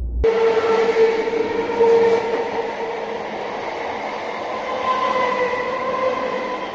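An electric multiple-unit local train running past along the platform: coaches and wheels rushing by, with a steady hum in several pitches over the noise. The sound starts abruptly about a quarter second in and eases slightly near the end as the last coach goes by.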